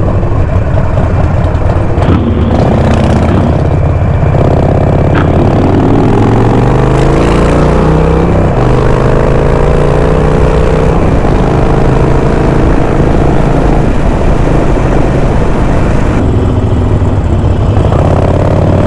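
Harley-Davidson Sportster V-twin motorcycle engine accelerating on the road: the pitch rises, drops at a gear change about eight seconds in, rises again, then eases off near the end, over steady wind noise on the microphone.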